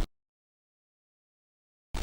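Dead silence for most of the stretch, between short snippets of dense, noisy sound. One cuts off abruptly just after the start; another starts abruptly just before the end.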